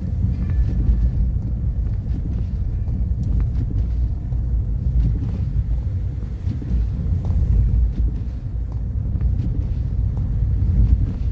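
Car driving along, a steady low rumble of road and engine noise, with faint scattered ticks over it.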